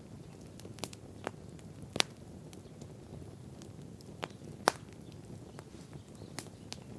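Wood fire burning, a low steady rumble with scattered sharp crackles and pops, two of them standing out as loud snaps about two seconds in and just before the middle.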